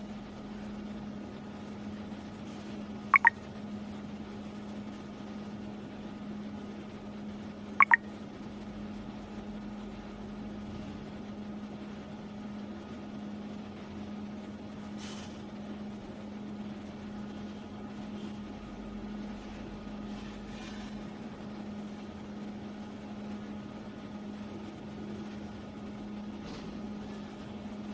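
Steady low hum and hiss from a surveillance camera's microphone, with two short high chirps about three and eight seconds in.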